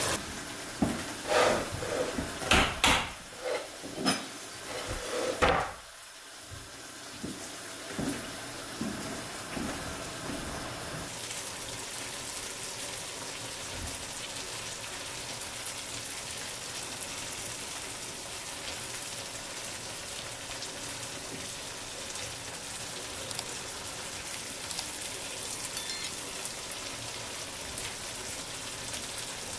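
Chicken simmering in a thick tomato-cream sauce, bubbles bursting with a few loud plops that thin out over the first ten seconds. About eleven seconds in, a steady sizzle takes over: cubed mutton tail fat frying in a small pan.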